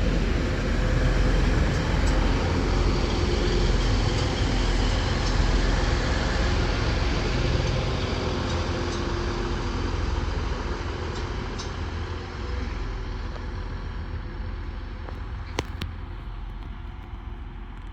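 TransPennine Express Class 185 diesel multiple unit running into the platform. Its engine and wheel noise fades steadily as it slows, with a couple of sharp clicks near the end.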